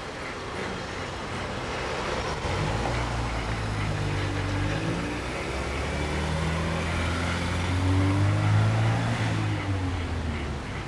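A motor vehicle's engine passing on the street over general traffic noise: a low hum that builds from about two seconds in, bends slightly in pitch, is loudest near the end, then fades.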